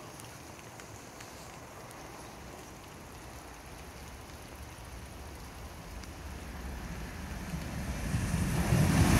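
A steady low rumble with wind noise, then an approaching freight train growing steadily louder over the last few seconds as it nears.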